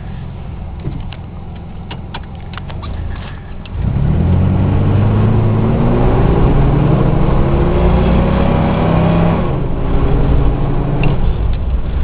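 Straight-piped 4.3-litre V6 of a 1988 Chevrolet S-10 Blazer under way, running low with a few light clicks at first. About four seconds in it opens up sharply and accelerates, its pitch rising for about five seconds before dropping back as the throttle eases near the end.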